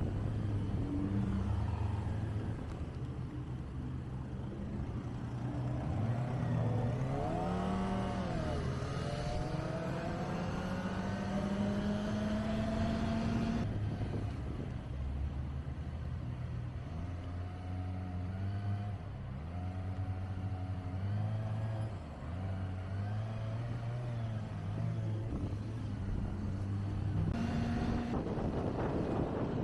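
Kawasaki Ninja ZX-25R's inline-four engine under way, its pitch stepping up and down with throttle and gear changes. About eight seconds in it makes one long rising pull through a gear.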